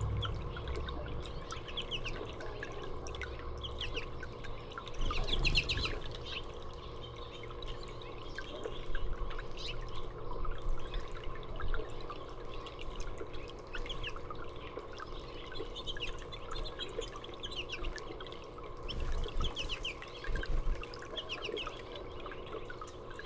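Small songbirds chirping, with short high calls scattered throughout, over a steady low hum.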